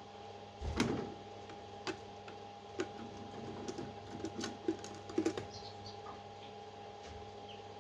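A thump, then irregular light clicks and taps over a steady low hum, with a few faint, short, high chirps near the end.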